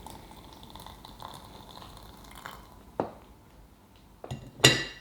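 Light knocks and clinks of crockery being handled: a sharp knock about three seconds in, then a louder clink that rings briefly near the end.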